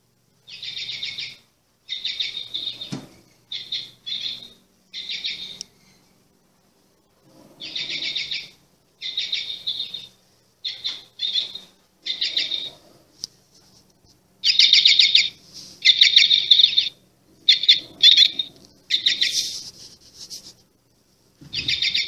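A bird chirping loudly in repeated short, quickly pulsing trills, each about half a second to a second long, with brief silences between them and the loudest calls in the second half.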